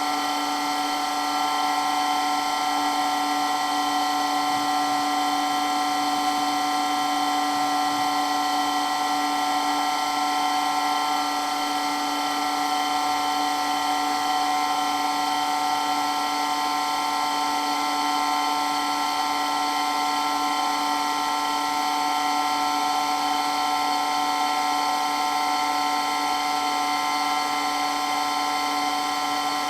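Water pump running steadily: a constant whine made of several steady tones, with no change in speed or level.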